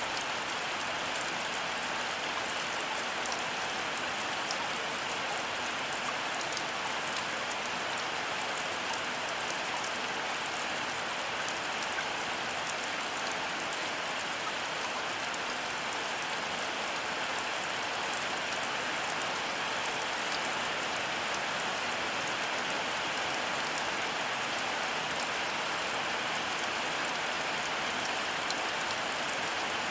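Heavy rain falling steadily, a dense even hiss with fine ticks of individual drops; no thunder.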